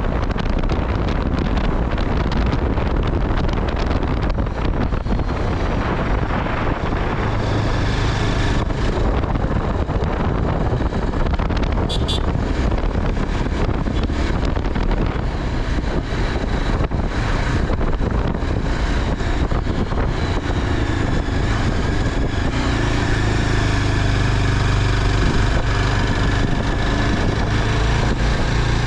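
Steady wind rushing over the microphone with running vehicle noise while riding, and a brief high click about twelve seconds in.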